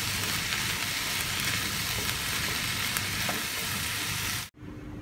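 Sliced ivy gourd and onion sizzling as they fry in hot oil in a nonstick pan, with a few faint scrapes from a wooden spatula stirring them. The sizzle cuts off suddenly about four and a half seconds in, leaving a faint steady hum.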